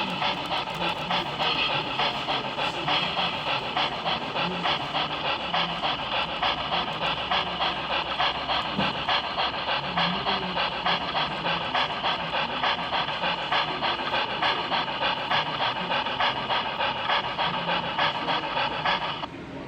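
Model steam locomotive chuffing: a steady, even rhythm of hissing exhaust beats, about two to three a second, that stops shortly before the end.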